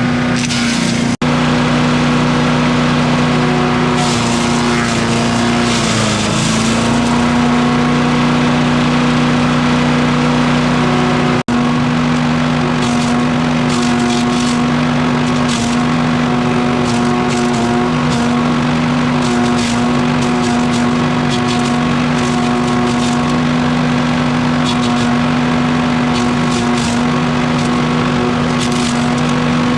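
Gas engine of a wood chipper running steadily at high speed, its pitch sagging briefly about six seconds in as it takes load.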